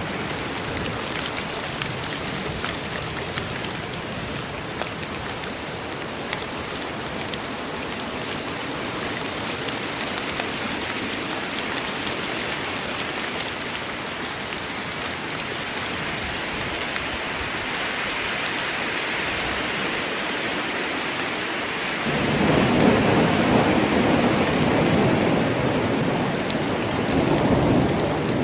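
Steady rain falling in a forest as an even hiss, with a low rolling rumble of thunder coming in about three quarters of the way through and lasting to the end.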